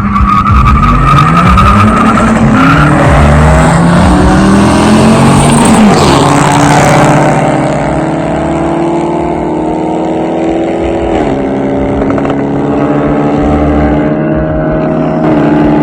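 Car engine running loud under changing revs: its pitch swings up and down for the first several seconds, then holds steadier, dipping briefly about eleven seconds in.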